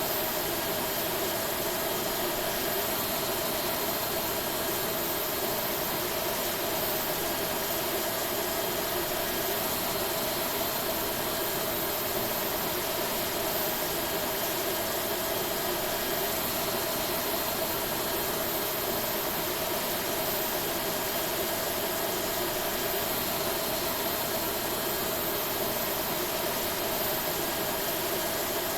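Steady on-board noise of an Airbus A321neo: engines and air systems running at a constant level, an even rush with a steady low hum and no change in pitch.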